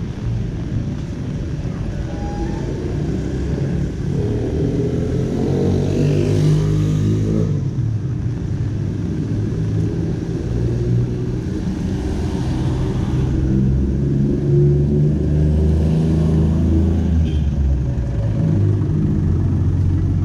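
Street traffic: the engines of several vehicles running in a steady low hum. One vehicle passes close by from about four to seven seconds in, its engine note sliding in pitch as it goes.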